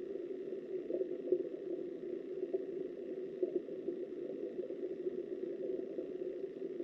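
Muffled, steady rush of flowing river water, heard through an underwater camera, with a few faint knocks.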